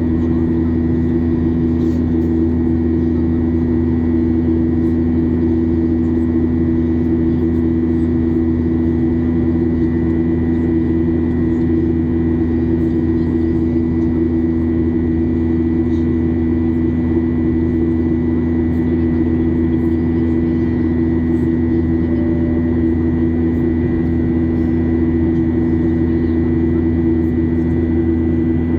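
Steady jet-engine drone inside the cabin of a Boeing 737-800, its CFM56 turbofans running at a constant setting: a low hum under a strong steady tone, with a thin high whine on top.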